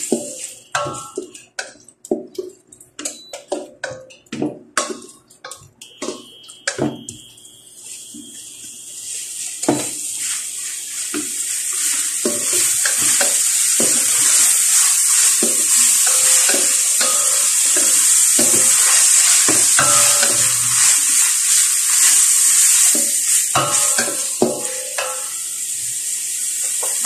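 Wooden spatula stirring and scraping chopped onions and garlic in a stainless steel pan, clacking against the metal. The sizzle of the hot oil builds up after several seconds into a steady loud hiss, with another run of stirring clacks near the end.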